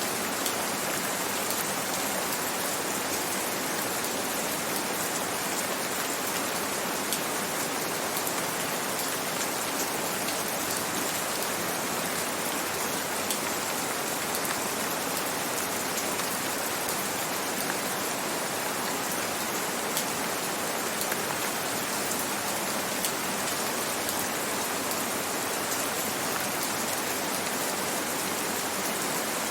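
Steady rain falling: a dense, even patter of drops, with a few sharper single drops standing out here and there.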